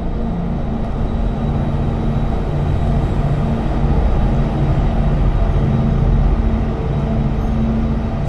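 An engine running steadily with a low drone, a little louder in the middle.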